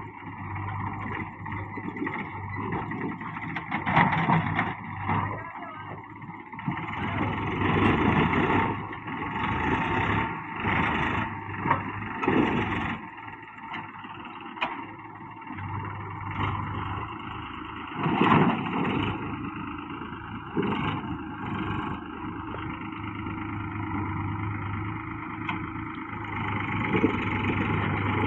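Tractor engine running under load, its sound swelling and easing several times as it works.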